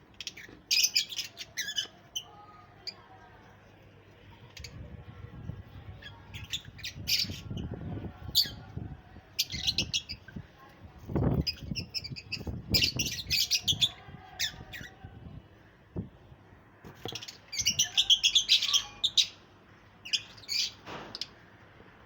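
Pet parrots chirping and squawking in bursts of rapid high chirps with short pauses between them.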